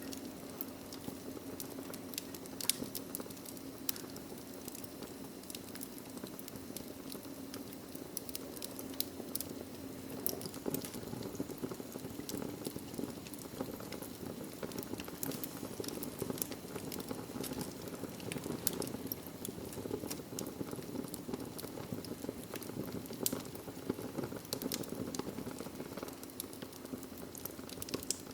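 Wood logs burning in a fireplace: a steady low hiss and rustle of flames with frequent sharp crackles and pops scattered throughout.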